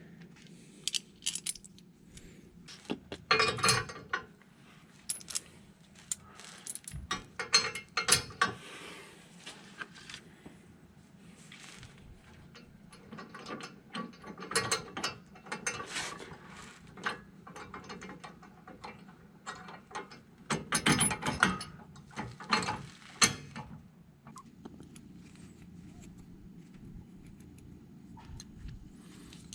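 Hand ratchet wrench clicking in about four bursts as bolts are run in, with a few sharper metal clanks among them.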